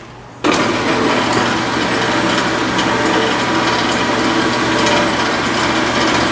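Ellis metal-cutting band saw switched on about half a second in and running steadily, its blade sawing through 3/8-inch flat steel bar stock.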